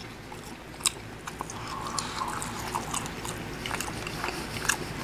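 Close-up chewing of a mouthful of breaded meatless orange 'chicken' nugget, with small wet mouth clicks at irregular intervals and a sharper click about a second in.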